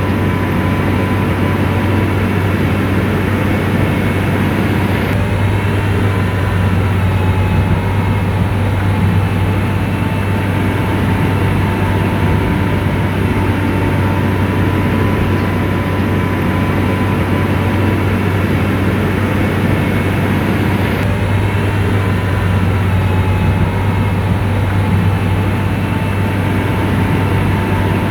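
Komatsu bulldozer's diesel engine running steadily: a constant low drone with a thin whine above it.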